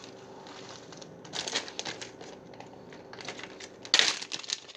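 Packaging being crinkled and handled in irregular scratchy bursts, loudest about four seconds in.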